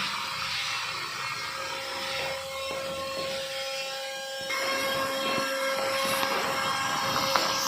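Small DC toy motor running with a steady whine, getting louder about four and a half seconds in.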